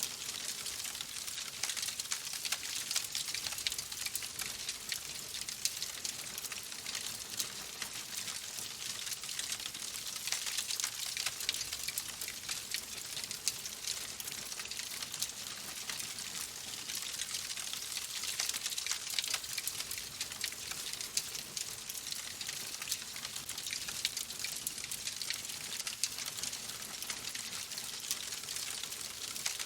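Fireplace fire crackling, a dense, steady run of small snaps and pops.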